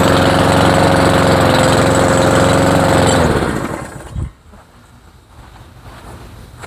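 Cub Cadet mower's 173cc PowerMore single-cylinder engine idling a little low with a rough note, sounding like an old motorcycle; the owner suspects it may be running a little rich. About three seconds in it is shut off and winds down to a stop, ending with a thump, and then only a faint hiss remains.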